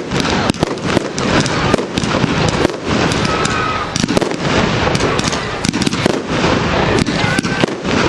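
Firework display in full flow: a dense, continuous barrage of bangs and crackling reports, many per second, with a brief faint whistle now and then.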